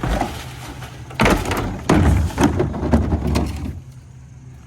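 Garbage truck with its engine running steadily, overlaid by loud clattering and banging from the truck's rear for a few seconds; the noise drops off suddenly near the end, leaving the engine.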